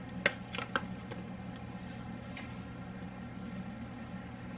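A few light clicks and taps from handling a funnel and seasoning containers, three close together about a second in and one more a little later, over a steady low hum.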